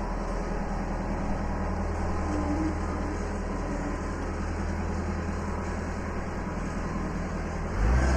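A large engine running steadily at low speed, with a deep even drone; it gets noticeably louder just before the end.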